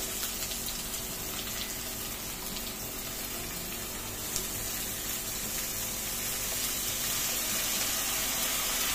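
Mixed vegetables and potatoes sizzling in hot mustard oil in a kadai, a steady hiss that grows a little louder over the last few seconds.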